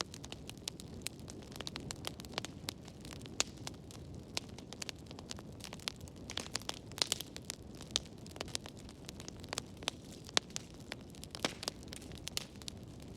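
Wood fire burning in a fireplace: a steady low rumble and hiss with irregular sharp crackles and pops, a brief cluster of them about halfway through.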